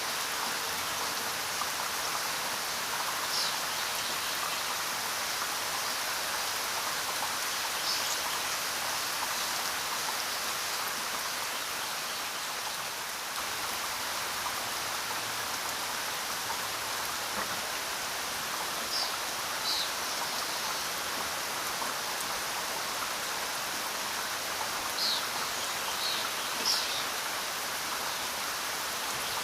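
Steady rain falling, an even hiss. A few short high-pitched ticks are scattered through it, about six in all, most of them in the second half.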